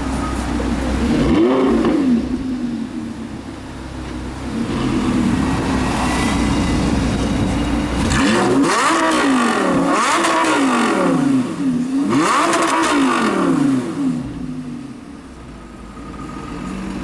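A loud, tuned high-performance car engine revved repeatedly, its pitch climbing and falling with each rev. There is a short rev about a second and a half in and a run of three hard revs in the middle, and it settles lower near the end.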